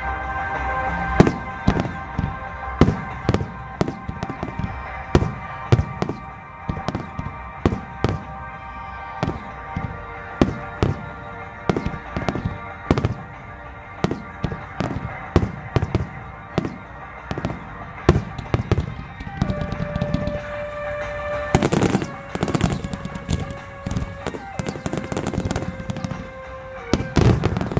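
Aerial firework shells bursting in quick succession, a sharp bang every second or so and several a second at times, with a denser flurry about three quarters of the way through. Music plays alongside.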